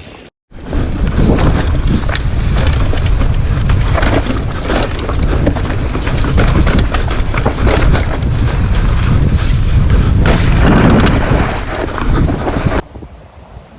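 Strong wind buffeting the microphone in a loud, gusty rumble that starts abruptly about half a second in and cuts off suddenly near the end.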